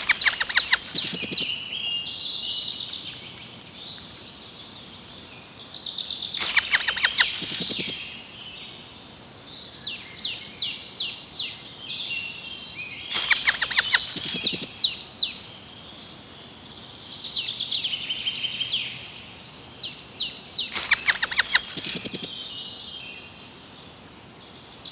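Birds chirping and calling in short high notes, with a rapid series of sharp clicks about every seven seconds, four times in all.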